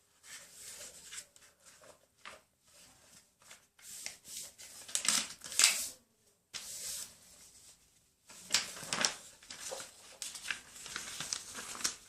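A sheet of paper being handled and folded, rustling and crinkling in irregular bursts, with the loudest strokes about five to six seconds in and again about nine seconds in.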